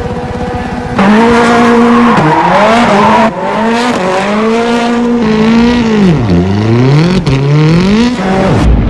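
Race-car engine revving sound that gets louder about a second in, its pitch dipping and climbing again several times, with a sharp click about seven seconds in.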